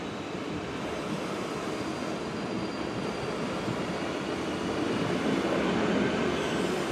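Red DB Regio electric multiple unit rolling slowly past close by, a steady hum of motors and wheels on rail with a faint high whine, growing louder about five seconds in.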